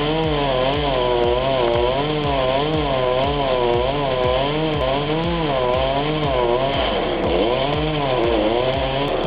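Chainsaw cutting, its engine pitch rising and falling about one and a half times a second as the chain bites into the wood, with a deeper drop in pitch near the end.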